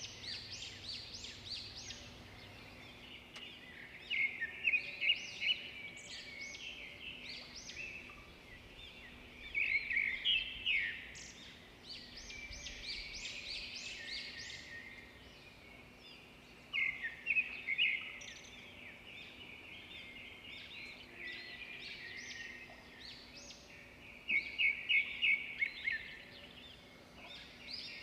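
Birds chirping in short bursts of rapid high chirps that come back every six or seven seconds, over a faint steady low hum.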